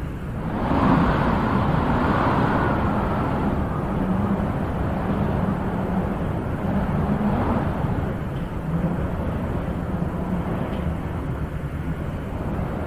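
Wind blowing in gusts: a steady rushing that swells about a second in and rises again near the end.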